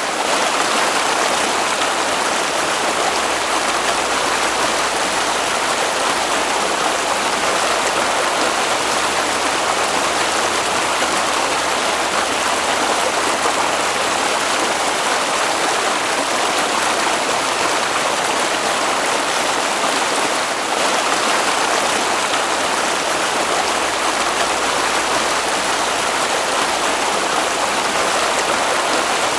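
Water flowing steadily in a stream, a continuous even wash of sound.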